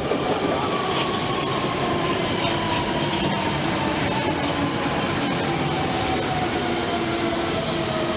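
London Underground Central Line train (1992 Stock) slowing as it pulls in. Its motor whine falls steadily in pitch over a dense, steady rumble of wheels on rail.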